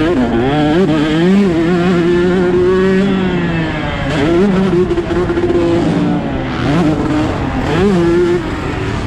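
Husqvarna TC 125's two-stroke single-cylinder engine revving under throttle: the pitch climbs, holds and drops several times as the rider opens and closes the throttle and shifts.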